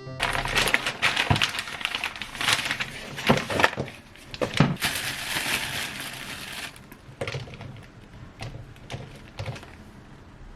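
Rustling and crinkling, like packaging being handled, with sharp clicks and knocks, busiest for the first several seconds and then thinning to occasional quiet clicks.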